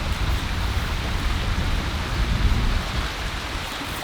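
Heavy rain in a storm, a steady hiss, with a strong low rumble under it that eases about three seconds in.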